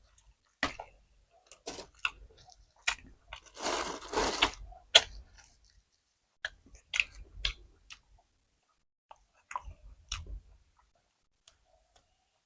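Close-up mouth sounds of eating fermented fish with raw chilies: irregular chewing and crunching. The densest stretch of chewing is about four seconds in, with sharp crunches just after it. The bursts thin out and stop near the end.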